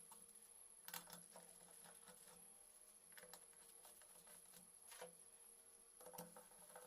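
Near silence with a few faint, sharp clicks and taps, clearest about a second in, about five seconds in and just after six seconds.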